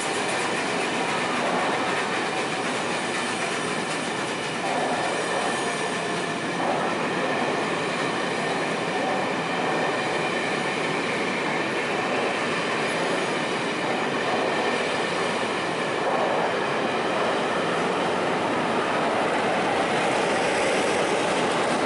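Passenger train coaches rolling past close by: a steady rush of wheels on rail. A diesel locomotive goes by near the end.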